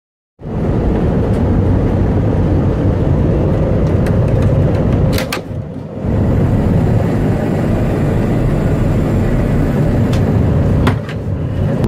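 Steady low rumble of an airliner heard from inside the cabin, with a brief dip and a couple of clicks about five seconds in.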